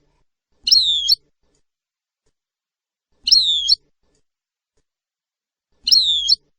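A small bird's short chirping call, repeated three times about two and a half seconds apart, identical each time.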